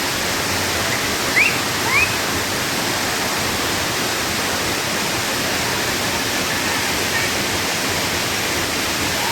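Waterfall rushing, a steady full roar of falling water. Two short rising chirps sound over it about a second and a half in.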